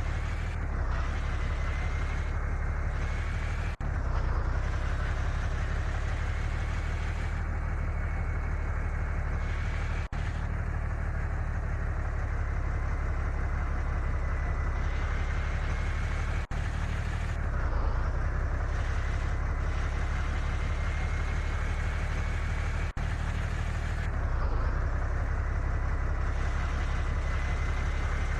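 Heavy truck driving, its engine running steadily under a high whine that climbs slowly in pitch and drops back about every six seconds.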